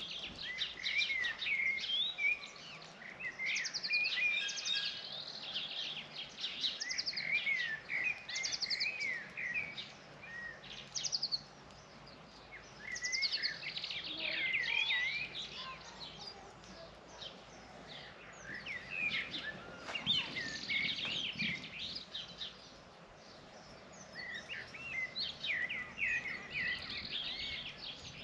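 A group of small birds chirping and twittering, many quick high calls overlapping, in bouts of a few seconds with short lulls between.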